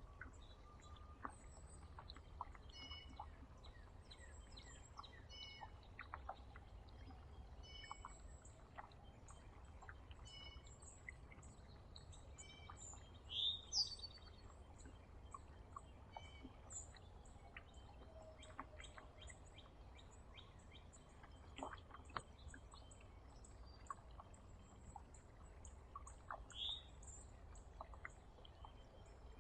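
Small songbirds at a feeder giving faint, scattered short chirps and call notes, with a few louder down-slurred chirps about halfway through and near the end. A low rumble runs underneath.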